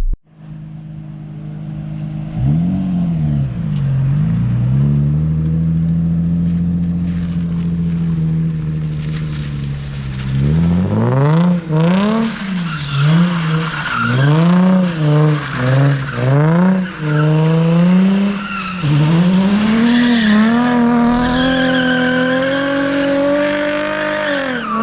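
Nissan 350Z's VQ V6 engine revving while drifting. From about ten seconds in the revs rise and fall over and over, roughly once a second, with tires squealing as the car slides on dry pavement.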